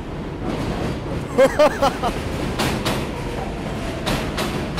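Elevated New York City subway train passing overhead: a loud, building rumble with rail clatter. Near the start it is punctuated by a few short, pitched squeals.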